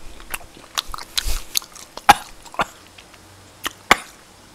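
A person eating close to the microphone: chewing duck meat with wet mouth smacks and sharp clicks, and a short breathy burst about a second in.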